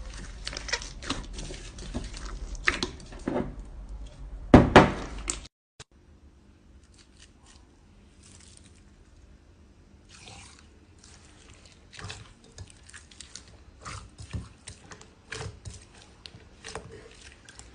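Slime being pressed and poked, crackling and squishing with many small pops and clicks. There is a louder squelch at about four and a half seconds, then a sudden cut to quieter, sparser crackling that grows busier again near the end.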